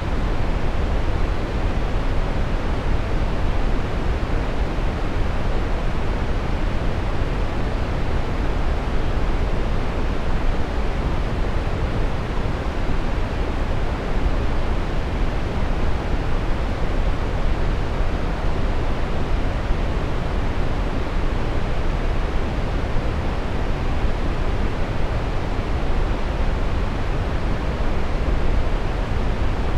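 Steady brown noise: a deep, even rushing hiss, strongest in the low end and falling away toward the top, without change.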